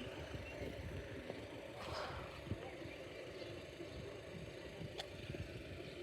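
Steady low rumble of road traffic, cars idling, with a single sharp click about five seconds in.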